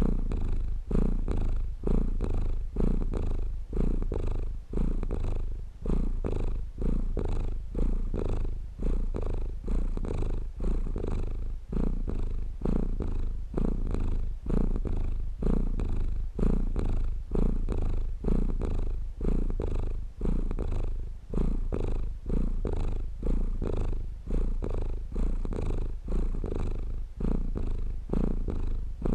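Domestic cat purring: a continuous low rumble that swells and fades about once a second with each breath in and out.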